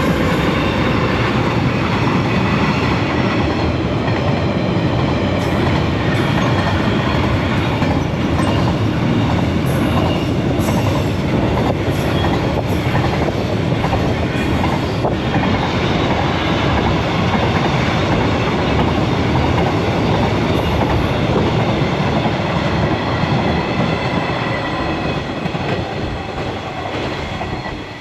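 Freight train passing close by: a steady loud rumble of wagons with wheels clacking over the rail joints, easing off near the end as the last wagons go by.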